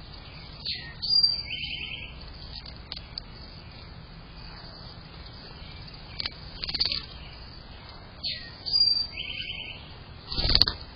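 Birds singing in open country: a phrase of a falling slurred note, a short high whistle and a fast trill comes twice, about seven seconds apart, with other short sharp calls in between. Near the end, a brief loud rush of noise reaches right down into the low range.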